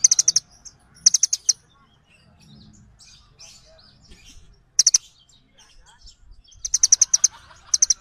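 Small songbird calling in short bursts of rapid, sharp, high-pitched chip notes, each burst a quick run of several chips. There are pauses between bursts, and the longest run comes near the end.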